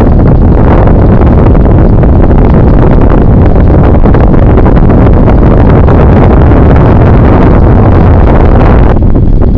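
Heavy wind buffeting on the microphone of a camera carried on a moving bicycle: a loud, continuous low rumble that eases slightly near the end.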